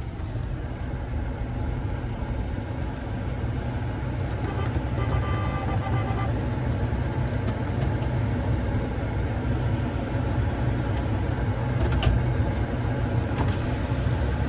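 Pickup truck's engine running, heard from inside the cab as a steady low rumble, with a faint high tone for a couple of seconds midway and a few light clicks near the end.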